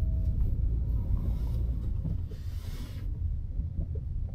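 Steady low road and engine rumble heard inside a moving car's cabin, with a short hiss a little past two seconds in.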